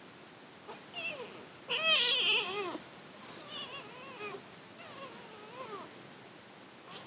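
Kitten meowing repeatedly, about five short calls that rise and fall in pitch, the loudest and longest about two seconds in.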